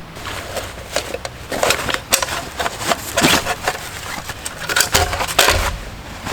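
Irregular knocks, clicks and rustles of camp gear or wood being handled at close range.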